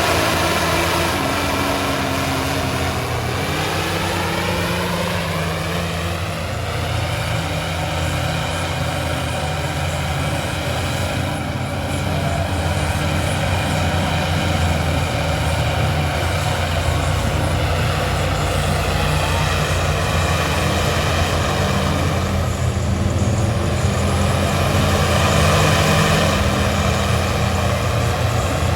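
A vehicle engine running steadily. Its pitch glides down over the first few seconds, then holds with small rises and falls.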